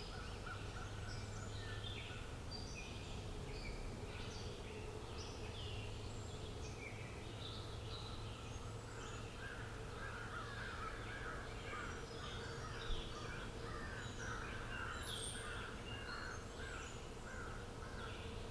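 Wild birds chirping and singing, many short overlapping calls, with a busier run of rapid, lower-pitched calls through the middle of the stretch, over a steady low background hum.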